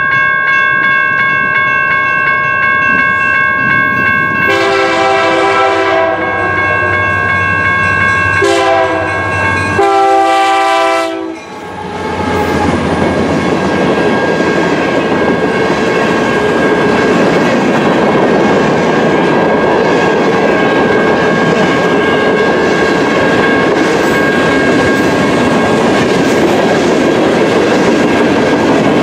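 Diesel freight train sounding its horn in two long blasts, a short one and a final long one, the standard grade-crossing signal. Its cars then roll past close by with steady wheel and rail noise and clickety-clack.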